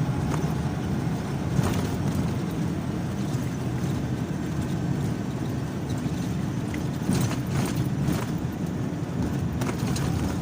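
Car driving along a road: a steady low rumble of engine and tyres, with a few short knocks and rattles, the sharpest about a second and a half in and a cluster around seven to eight seconds in.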